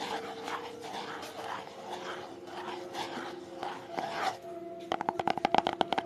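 ASMR tapping triggers: soft strokes about twice a second, then, about five seconds in, a fast run of sharp taps at about ten a second.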